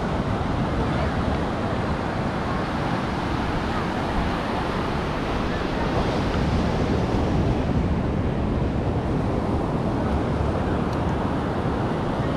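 Ocean surf washing steadily on a sandy beach, with wind rumbling on the microphone.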